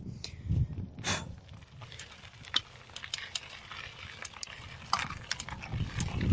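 Mountain bike rattling and clicking as it rides fast over a rough dirt trail, many sharp clatters over a low rumble.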